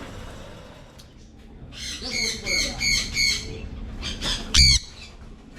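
Tame parrot squawking: four harsh calls in quick succession about two seconds in, then two more near the end, the last one the loudest and coming with a low thump.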